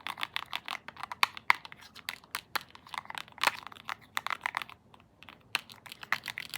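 Rapid, uneven clicking and clacking of small handheld clicky toys (a star and a remote) being pressed over and over, much like keyboard keys being typed on, with a short pause about five seconds in.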